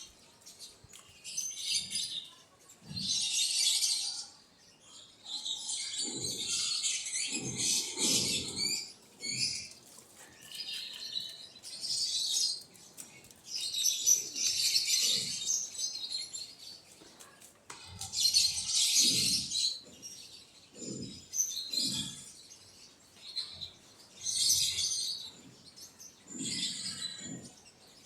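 Quail chirping in repeated bursts of a second or two, with wing flapping.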